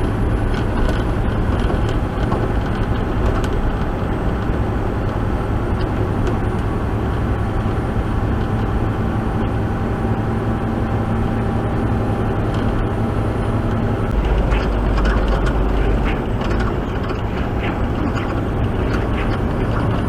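Truck engine running as heard inside the cab while pulling away and gathering speed on the road, with a change in the engine note about two-thirds of the way through.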